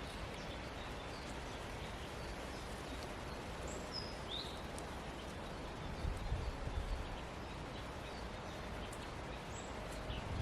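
Outdoor ambience: a steady rushing hiss with scattered short bird chirps, the clearest a few seconds in, and a few low bumps about six to seven seconds in.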